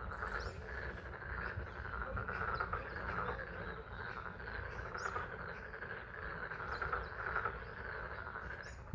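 A dense chorus of frogs calling at a pond, a steady band of overlapping calls, with spring rain falling.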